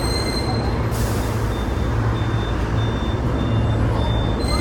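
Hong Kong tram running, a steady low rumble of wheels and motor. About a second in there is a hiss like an air brake, followed by a string of short high beeps about twice a second.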